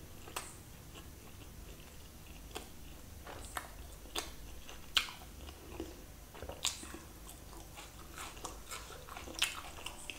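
Close-miked chewing of a mouthful of roti dipped in chicken curry, lips closed: soft, scattered wet mouth clicks and smacks.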